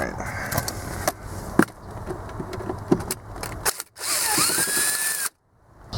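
Sharp clicks and knocks of hand tools and plastic dash trim being worked loose, then about four seconds in a power tool whirs for about a second, its whine rising and then holding.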